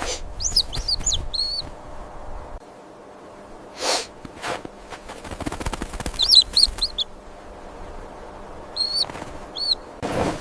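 Small bird chirping in three short bursts of quick, high rising-and-falling notes, with two brief sharp noises between them about four seconds in.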